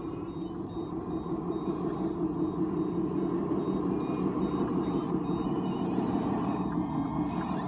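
Radio-controlled construction machine running steadily, with a faint repeating reversing beep.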